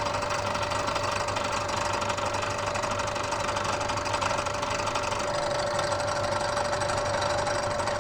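Bridgeport milling machine running with an end mill taking a light side cut along the edge of a metal block: a steady, even cutting noise with a constant tone, which starts and stops abruptly.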